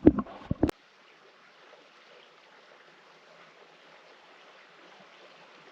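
A few sharp knocks in the first second, then the low, steady hiss of a campfire burning.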